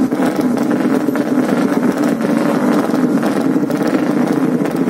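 Racing motorcycle engines running steadily, holding an even pitch without revving up or down.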